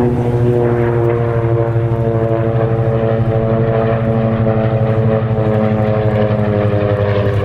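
Curtiss SB2C Helldiver's Wright Cyclone radial engine and propeller making a pass, a loud, steady drone whose pitch slowly falls as the plane goes by.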